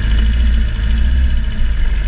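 Motorcycle engine running steadily under way, with a loud, steady low rumble.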